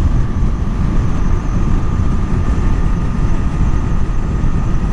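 Husqvarna Svartpilen 401 motorcycle at a steady cruising speed: the single-cylinder engine runs under a heavy, even rush of wind on the rider's microphone, with a faint steady whine.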